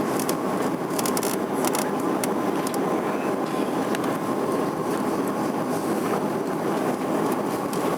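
Steady rumbling noise of a moving vehicle, with a faint steady hum over it and a few light clicks in the first couple of seconds.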